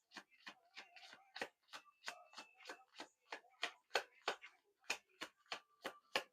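Faint, quick, irregular clicks and taps from hands handling something close to the microphone, about three to four a second.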